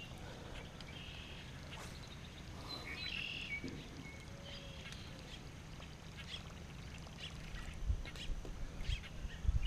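Faint bird calls, a few short calls scattered over a quiet background, with a few soft low bumps near the end.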